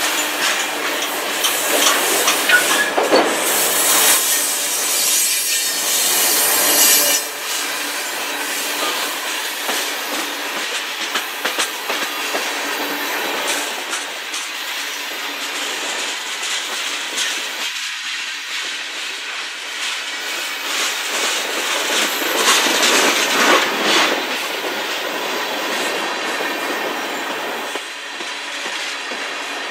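Freight cars of a manifest train, tank cars and a steel-coil car, rolling past close by: steel wheels running on the rail with clicking over the joints and a thin wheel squeal. The noise swells a few seconds in and again about two-thirds of the way through.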